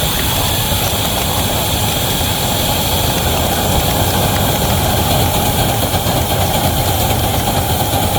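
Wabash #713 locomotive running steadily with a heavy train: a loud, even mechanical rumble.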